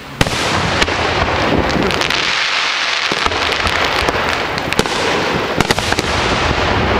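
Aerial firework shells bursting: a sharp bang just after the start, then a dense, continuous rush of noise with scattered sharp bangs and cracks.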